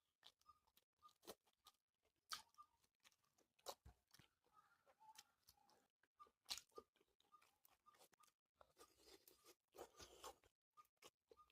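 Close-miked chewing and crunching of pork and green chili, with irregular sharp mouth clicks throughout and denser crunching near the end.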